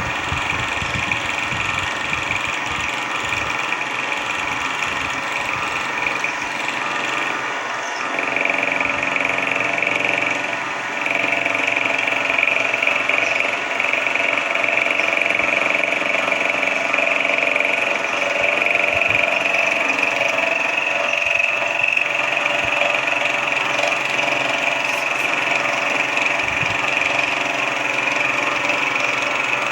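Small benchtop machine tool running steadily with a motor whine and a constant mechanical hum. It gets louder about eight seconds in and again about eleven seconds in.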